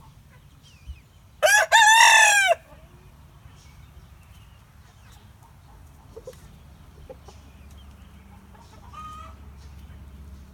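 A rooster crows once, loud and about a second long, starting about a second and a half in. A few faint chicken clucks follow later.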